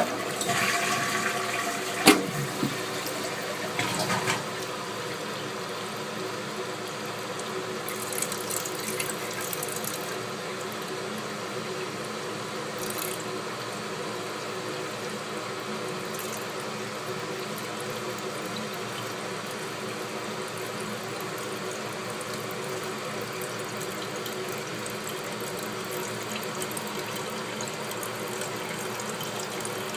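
A toilet flushing, with a rush of water over the first few seconds and a sharp click about two seconds in, then a steady hiss of water as the tank refills through a newly installed Korky QuietFill universal fill valve.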